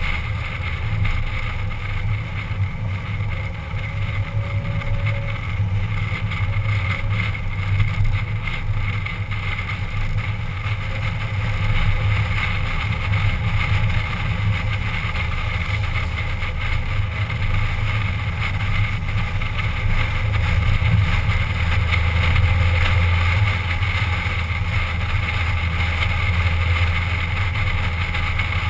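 Car engine running steadily at cruising speed with road noise, heard from inside the cabin as a constant low drone that swells slightly about two-thirds of the way through.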